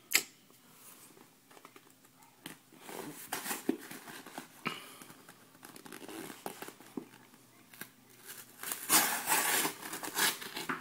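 A package being opened with a folding knife: a sharp click at the start, then irregular cutting and tearing of packaging and crinkling of plastic, loudest near the end.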